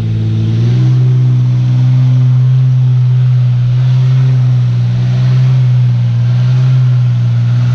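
Flatbed truck's engine held at high, steady revs, stepping up slightly about a second in: the truck is stuck and trying to drive out.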